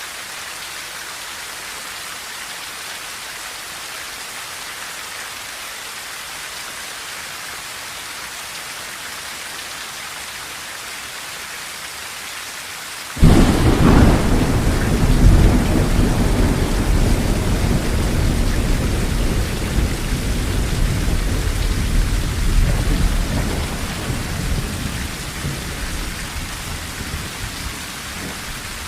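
Steady rain drumming on a tin roof. About halfway through, a sudden loud thunderclap breaks in, and its deep rumble rolls on and slowly fades over the next ten seconds or so.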